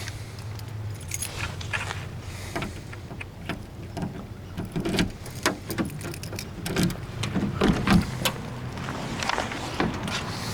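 A set of keys jangling, with many irregular clicks and knocks that grow denser and louder in the second half.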